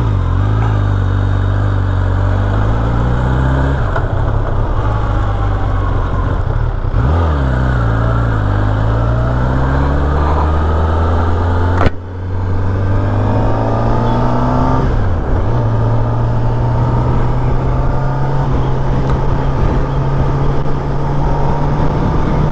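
Kawasaki ZX-10R's inline-four engine running at road speed with heavy wind and road noise. The engine note dips and climbs again several times as the revs change. There is one sharp click a little past halfway.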